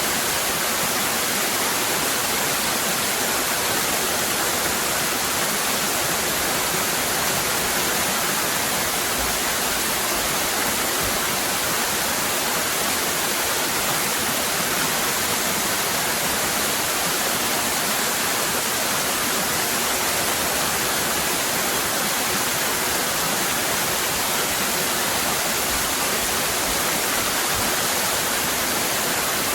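Steady rush of a cascading waterfall, an even hiss of falling water that doesn't change.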